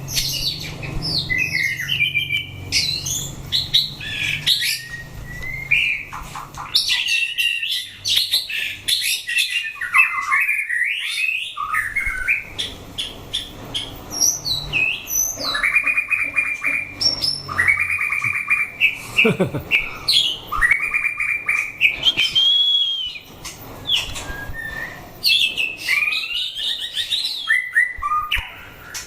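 White-rumped shama singing: a long, varied song of clear whistles, pitch glides and fast repeated trills.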